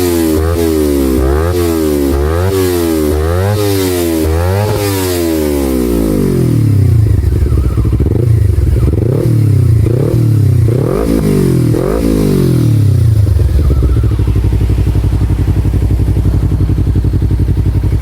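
Kawasaki Ninja 250 Fi motorcycle engine running through a Prospeed Spider Carbon aftermarket exhaust. It is revved in quick repeated blips for about five seconds, then in slower, deeper blips, and settles to a steady idle for the last few seconds.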